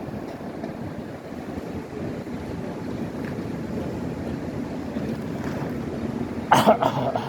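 ČKD tram running along the track with a steady rumble, then a short loud burst of sharp noise near the end.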